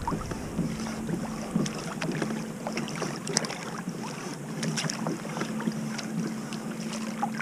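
A crab trotline being run up alongside a kayak: water dripping and splashing off the line in scattered small ticks and splashes, over a steady low hum.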